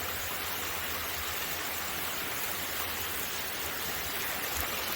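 Steady rain falling, an even hiss of rain without any single drops standing out.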